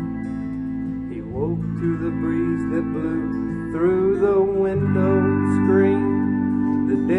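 Live band music on guitars: sustained chords, with a melody line that bends and slides in pitch coming in about a second in and getting louder about four seconds in.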